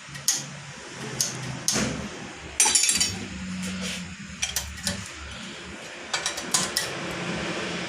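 Small metal parts clinking and tapping against each other while a Bosch rotary diesel injection pump is put together by hand, as its control shaft is fitted. There is a brief scraping rustle about two and a half seconds in, over a faint steady hum.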